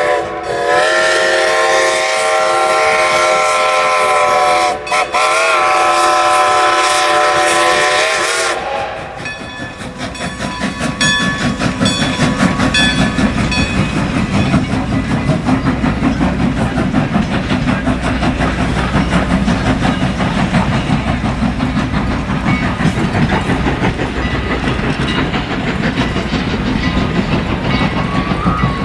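Steam locomotive whistle blowing a long blast, broken briefly twice, that cuts off about eight seconds in. Then the train rolls past with a steady low rumble and the rhythmic clatter of wheels on the rails.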